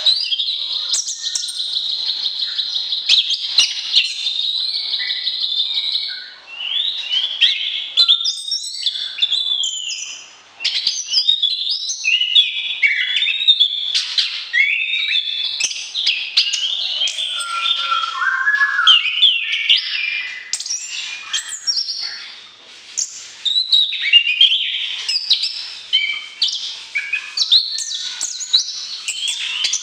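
Songbird singing a long, varied song: a steady high buzzing trill for the first few seconds, then quick whistled glides and chattering phrases with a few brief pauses.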